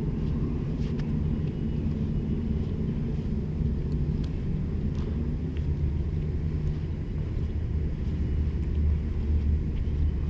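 Steady low engine rumble, as of a vehicle running at an even speed, with a few faint ticks.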